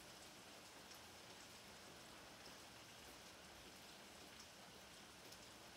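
Rain falling steadily, faint, with scattered sharp ticks of single drops.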